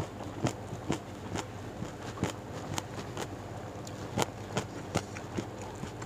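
Close-miked chewing of food, with sharp crunches or smacks about twice a second.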